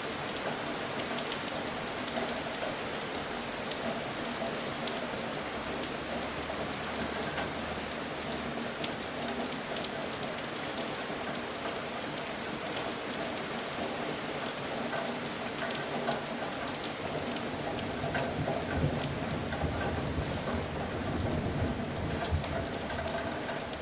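Steady rain falling, with individual drops ticking sharply on a surface. A low rumble builds in the last few seconds.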